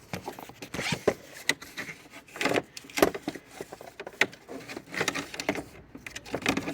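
Irregular scraping, rubbing and clicking as an extension cord is pushed by hand through a slotted opening in the engine bay's plastic trim.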